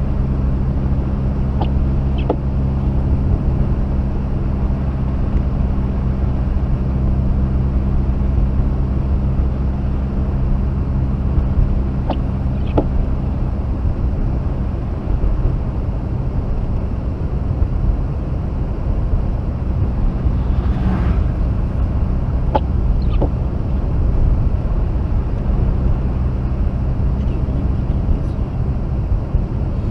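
Steady engine and road noise inside the cabin of a Mazda RX-8 on the move, its two-rotor rotary engine giving a low, even drone. Three times a pair of light clicks sounds, about ten seconds apart.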